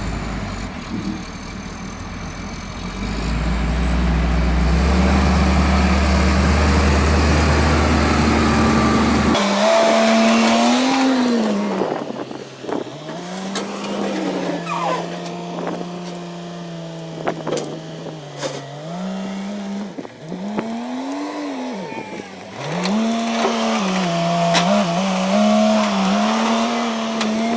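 Wheel loader's diesel engine running with a deep rumble, revving up a few seconds in while pushing fallen trees. About nine seconds in the low rumble cuts off abruptly and a motor whine takes over, repeatedly rising and falling in pitch.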